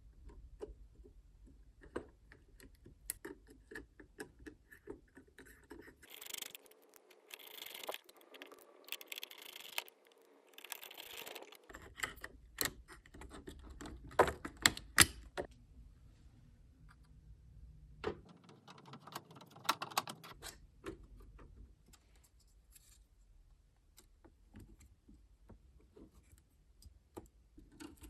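Laptop parts being handled during disassembly and cleaning: scattered small clicks and taps of plastic and small metal parts, the loudest a few sharp clicks about fourteen to fifteen seconds in, with several seconds of rustling, scratchy noise about six to eleven seconds in.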